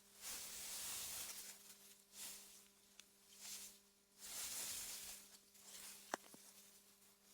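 Faint AI-generated wind-through-meadow ambience: soft gusts of hiss swelling and fading every second or two, over a steady low hum, with a single sharp click about six seconds in.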